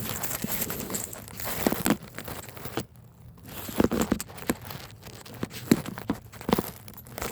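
Irregular handling noise: scattered knocks, scrapes and rustling, with a short quieter gap about three seconds in.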